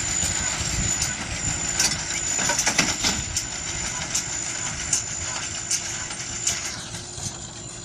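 Baler running, a steady mechanical sound with a thin high whine and irregular sharp knocks, easing off a little near the end.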